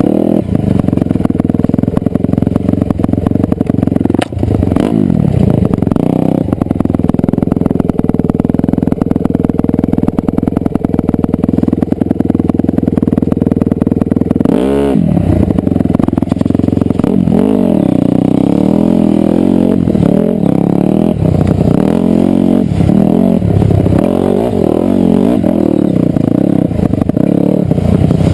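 Dirt bike engine running hard, its revs rising and falling as the throttle is worked, with a quick drop and rise in revs about halfway through and more up-and-down revving after that.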